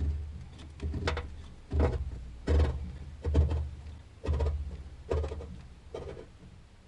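A series of about eight dull knocks or thumps, a little under a second apart, fading away toward the end.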